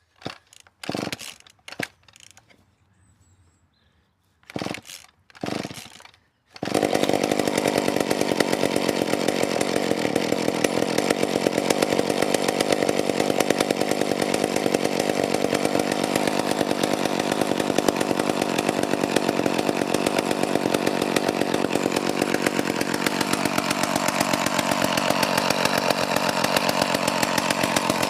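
McCulloch Power Mac 310 two-stroke chainsaw being cold-started on choke. It takes several quick starter-cord pulls, catches about six and a half seconds in, then runs on continuously and loudly, its note dropping a little near the end.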